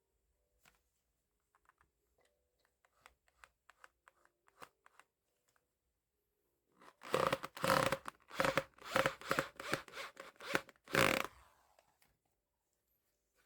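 A run of about ten loud rough scraping strokes, two to three a second, stopping sharply near the end. Before it come a few seconds of faint light clicks and taps.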